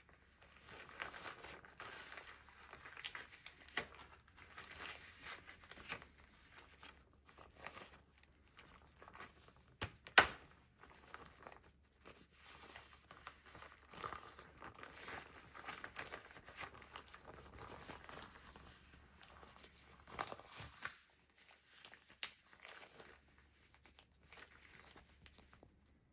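Close-up crumpling and crinkling with some tearing, coming in irregular bursts, and one sharp knock about ten seconds in.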